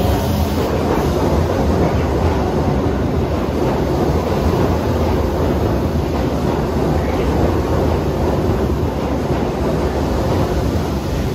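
Keikyu 1500-series electric train pulling out of an underground station and rolling past the platform, a steady rumble of wheels and running gear that holds loud throughout.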